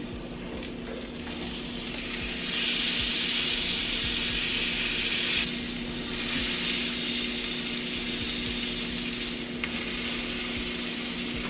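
Plant-based meat log searing in its own fat in a dry grill pan, a steady sizzle as it is turned onto another side with tongs. The sizzle swells for about three seconds, starting a couple of seconds in.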